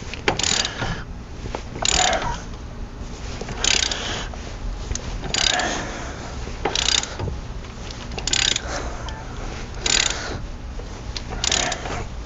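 Hand ratchet wrench clicking as it is worked back and forth on a stiff bolt, with a louder stroke about every one and a half seconds.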